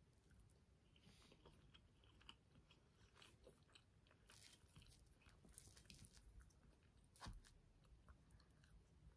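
Faint, close-up chewing of a soft buttermilk pancake soaked in maple syrup, with small wet mouth clicks throughout. A single soft knock comes about seven seconds in.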